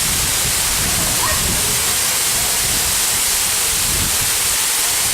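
Waterfall: a steady rush of falling water with a strong hiss.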